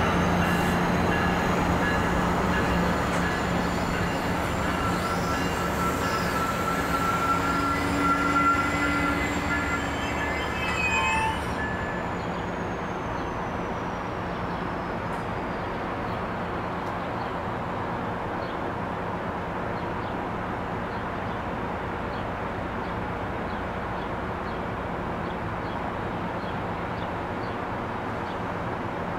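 MARC bi-level commuter train braking into a station, its wheels and brakes squealing with several thin high tones, until it comes to a stop about eleven seconds in. After that there is only the steady hum of the standing train.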